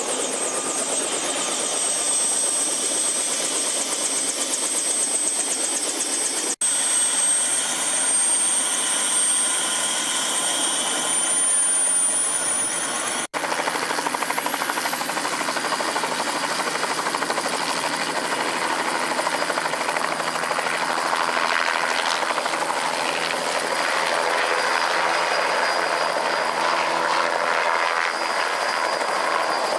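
Helicopter running steadily, its turbine giving a high whine over the engine and rotor noise; the whine climbs slightly in pitch in the first half. The sound breaks off for an instant twice.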